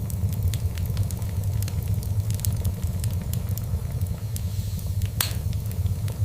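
Fire in a fireplace crackling, with irregular small pops throughout and one louder pop about five seconds in, over a steady low rumble.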